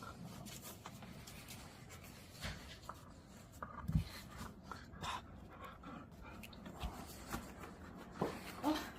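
A Pungsan dog making small sounds close by, with scattered light clicks and rustles throughout and a louder knock about four seconds in. A few brief higher sounds come near the end.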